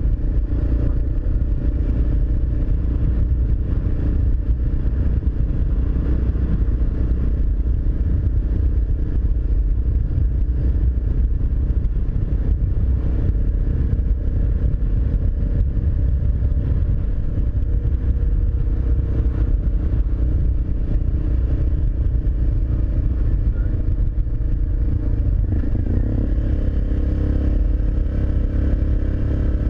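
Suzuki DR650SE's single-cylinder engine running steadily at road speed through an aftermarket Barrett exhaust, with its note shifting about 26 seconds in.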